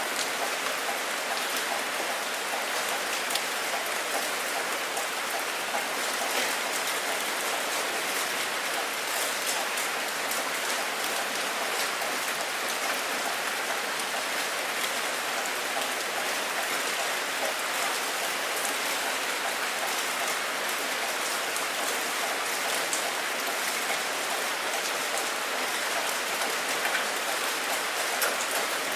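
Steady rain falling, a constant even hiss with fine scattered drop ticks.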